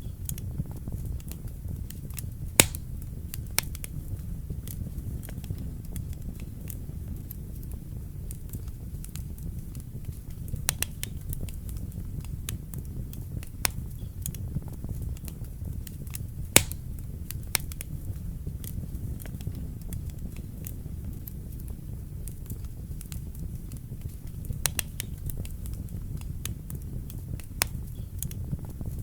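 Wood fire burning in a fireplace: a steady low rumble of flames with irregular sharp crackles and pops, two louder pops about 2.5 and 16.5 seconds in.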